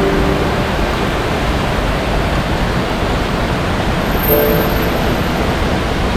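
Jōren Falls' waterfall pouring, a loud, steady rush of falling water.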